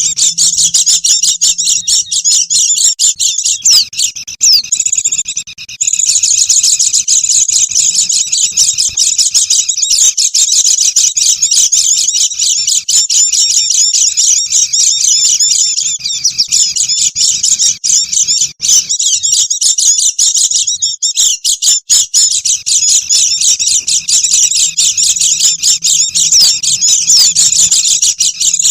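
A dense flock of white-eyes (pleci) twittering and chirping continuously, many high calls overlapping into a noisy chatter, with brief breaks about five seconds in and again past twenty seconds.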